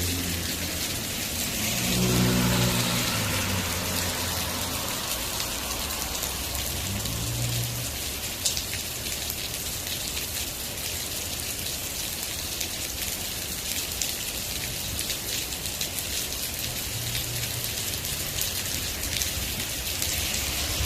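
Steady rain falling and pattering on surfaces, with a few sharp drips. A low hum swells and fades a few times: near the start, about seven seconds in, and near the end.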